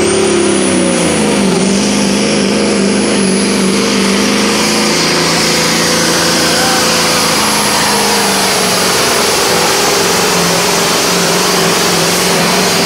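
Super stock semi truck's single-turbo diesel engine running hard at high RPM. Its turbo whine rises sharply at the start and then holds high and steady over the engine note.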